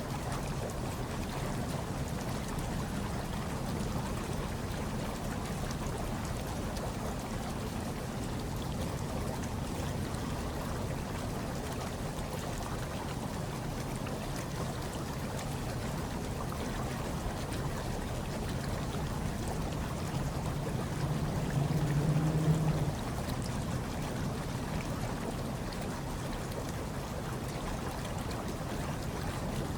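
Hot tub water bubbling and churning steadily, over a low steady hum. About 21 seconds in, it swells louder for a second or two.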